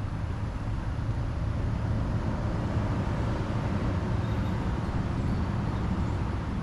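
Steady low rumble of road traffic, swelling slightly a couple of seconds in.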